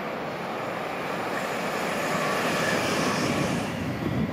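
Class 345 electric multiple-unit train approaching, its running and wheel-on-rail noise growing steadily louder with a faint whine. Near the end the hiss drops away abruptly.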